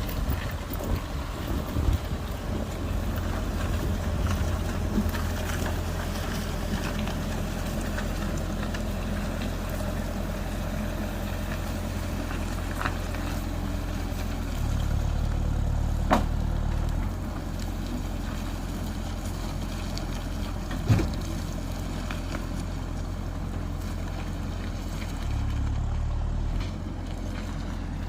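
LKT 82 forestry skidder's diesel engine running steadily with a deep rumble. The rumble twice swells louder for a second or two as the machine is driven by remote control, and there are a couple of sharp knocks.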